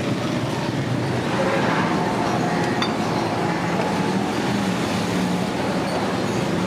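Steady din of street traffic, with a faint clink about three seconds in.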